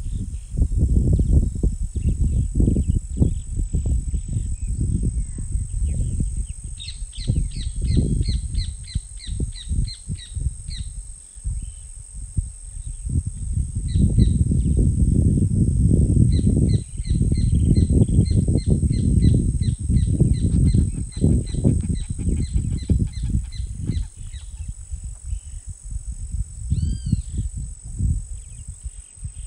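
A bird calling in quick runs of repeated notes, one run lasting a few seconds and a longer one of about ten seconds, then two short arching calls near the end. Under it are a steady high-pitched insect hum and a loud, gusty low rumble that rises and falls.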